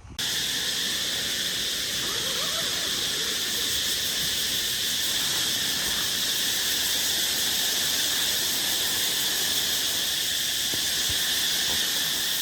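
Dense insect chorus, a steady high shrill of many insects calling together without a break.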